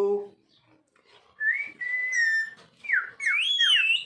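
Parrot whistling: a short held note, then a run of quick swooping whistles that rise and fall.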